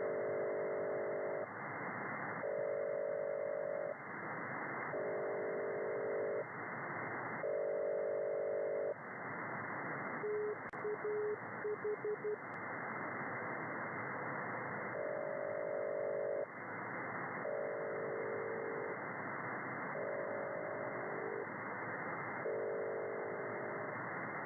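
Shortwave radio signal heard through static hiss: a repeating chord of several low steady tones, each about a second and a half long and coming every two and a half seconds. Around the middle it breaks into a run of short single beeps, then the tone chords resume.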